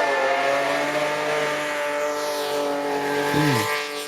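Rally car engine running at steady high revs, with a short rise and fall in pitch about three and a half seconds in.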